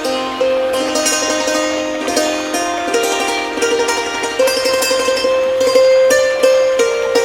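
Thai khim, a hammered dulcimer, playing a slow melody of struck string notes that ring on over one another.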